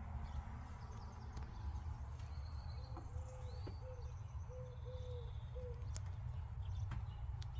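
Steady low background rumble with a few faint clicks. Midway through, a bird gives a run of about six short low calls.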